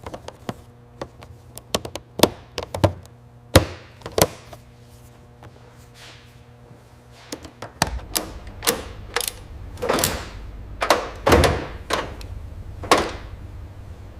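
A run of irregular clicks, knocks and thuds, like parts and tools being handled and fitted, some with a short metallic ring. A low steady hum comes in about eight seconds in.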